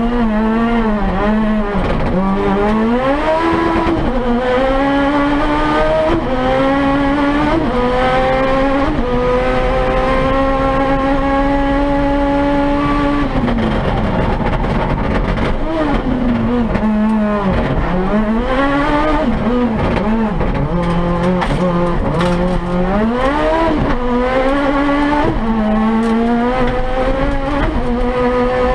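Turbocharged 998 cc engine of a Toyota Yaris sprint car, heard from inside the cabin, revving up through the gears with a drop in pitch at each shift. It holds steady at high revs in the middle, then falls and rises several times as the car slows for the corners, before climbing through the gears again.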